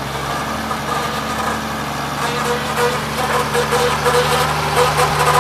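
International plow truck's engine idling steadily, with a short pulsing tone repeating from about two seconds in.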